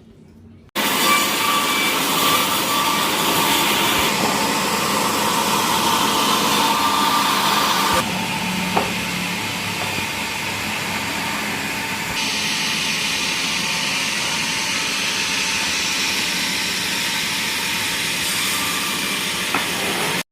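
Sawmill saw running through mahogany wood: a loud, steady cutting noise that starts suddenly about a second in. Its tone changes abruptly several times, and there is a brief knock midway.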